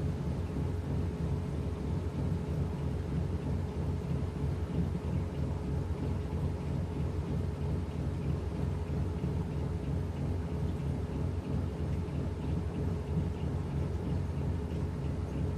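Washing machine running with a steady low hum and rumble.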